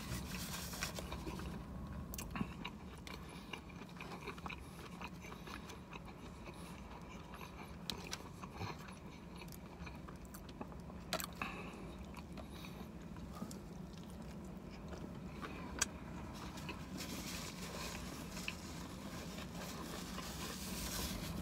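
A man biting into and chewing a fried chicken sandwich, with a few sharp crunches and clicks scattered through, over a steady low hum.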